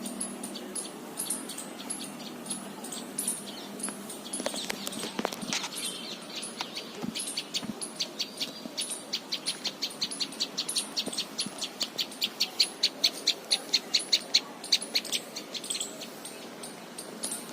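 Birds calling: a short, high chirp repeats about twice a second, and about halfway through a faster, louder run of sharp notes, about four a second, joins it for several seconds.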